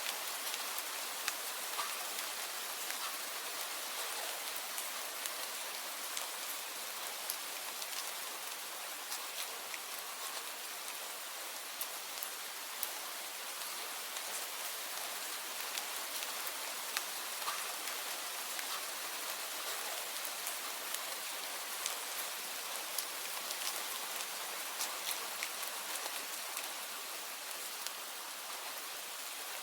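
Steady rain falling on a surface: an even hiss with many separate drops ticking sharply through it.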